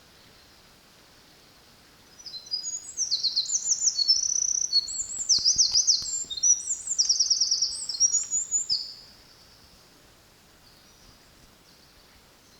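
Eurasian wren singing: one long song of fast, high trills and rapid notes, starting about two seconds in and lasting about seven seconds, over a faint steady hiss.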